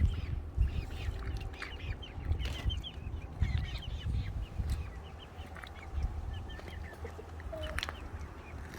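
Chickens clucking and chirping, many short calls overlapping, over a low rumble.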